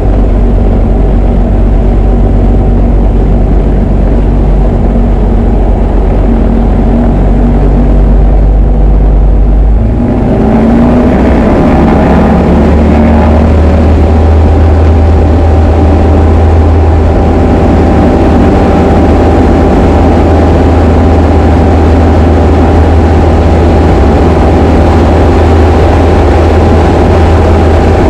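Diamond DA20 light aircraft's piston engine and propeller running steadily, then speeding up about ten seconds in and holding at a higher, steady power.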